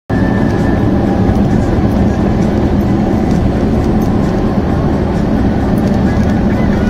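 Steady road and engine rumble inside a moving car, as picked up by a dashboard camera while driving.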